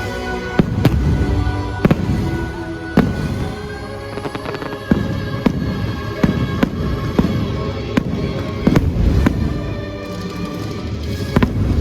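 Fireworks going off, sharp bangs and pops roughly once or twice a second, with music playing beneath them.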